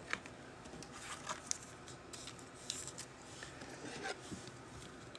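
Faint, scattered rustles and light clicks of trading cards and foil pack wrappers being handled on a table.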